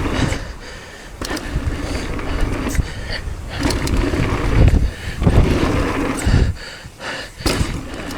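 Mountain bike riding fast down a dirt trail: tyres rolling and scraping over the ground, with the chain and frame clattering in sharp knocks over bumps. Strong wind buffets the microphone in gusts throughout.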